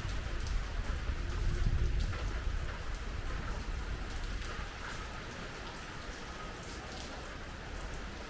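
Heavy typhoon rain falling, with individual drops clicking sharply on nearby surfaces. Gusts of wind hit the microphone as a low, uneven rumble for about the first three seconds, then ease off.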